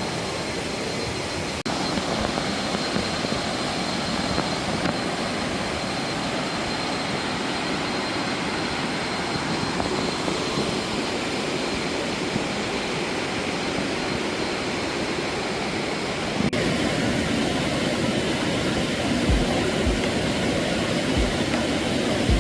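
Steady rush of water from a waterfall and its stream, growing a little louder about three-quarters of the way through.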